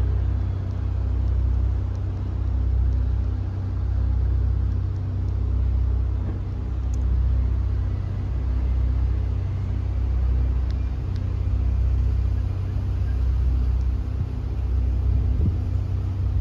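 A motor vehicle engine idling steadily, a low rumble that swells and fades about every one and a half seconds.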